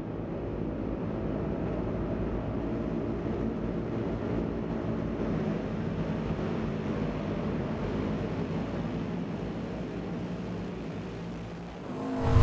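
Flat-track racing motorcycle engines in a steady, droning blend that fades in. A much louder sound sets in suddenly just before the end.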